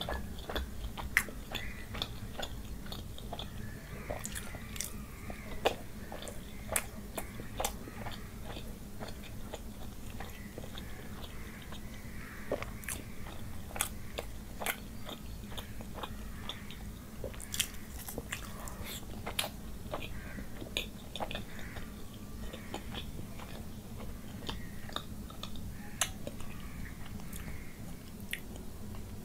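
A person eating by hand, close to the microphone: chewing and biting with wet mouth clicks and smacks at irregular intervals, over a low steady hum.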